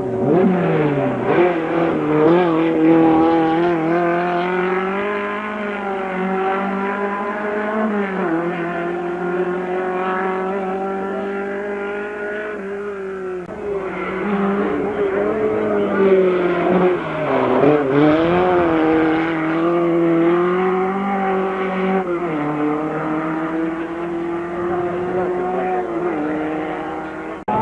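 Competition car's engine at full throttle, climbing in pitch through the revs and dropping back at each gear change, several times over.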